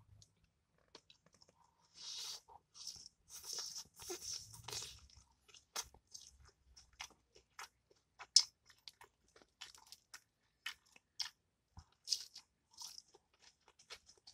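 Close-up eating of fried fish and shredded lettuce: chewing with irregular sharp crunches. The crunching is densest about two to five seconds in, with one loud crunch a little past the middle.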